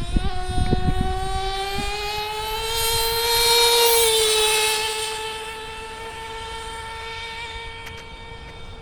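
JL MAX .28 nitro engine in a Traxxas T-Maxx RC truck running at high revs on a speed run: a high, buzzing whine that climbs slowly and is loudest about four seconds in. Then its pitch dips slightly and it holds steady while growing fainter.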